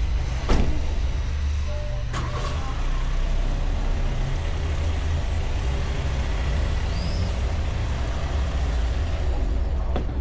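Car driving, heard from a bonnet-mounted camera behind a wind muff: a steady low rumble of road, engine and wind noise, with a sharp knock about half a second in and another about two seconds in.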